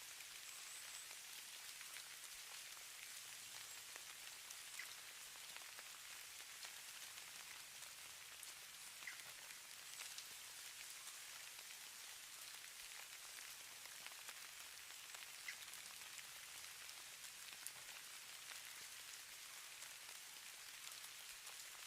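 Falling snow: a faint, steady hiss with scattered light ticks of flakes landing.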